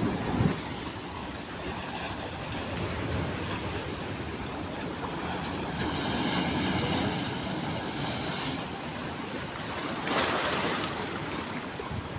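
Sea surf breaking and washing, with wind rumbling on the microphone; one louder wave surges about ten seconds in.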